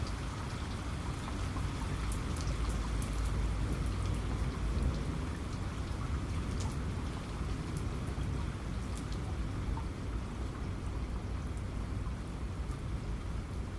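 Rain falling steadily, with scattered sharp drop ticks on top and a continuous low rumble underneath.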